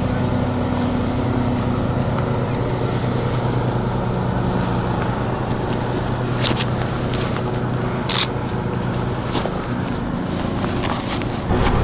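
A steady low mechanical hum with a few sharp clicks and scrapes scattered through it.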